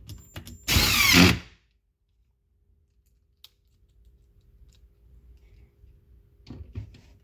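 Power drill driving a screw into cabinet panels: one short run about a second in, its pitch dropping as the screw tightens, with a few light clicks of handling around it.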